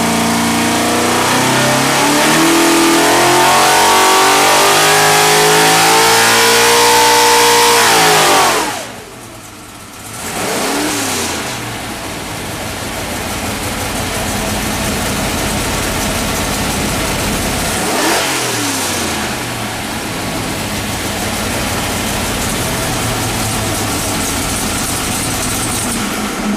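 434 cubic-inch small-block Chevy stroker V8 on an engine dyno making a full-throttle pull, its pitch climbing steadily for about eight seconds. The throttle is then chopped and the engine drops back to a lower, steady run, with a couple of brief blips.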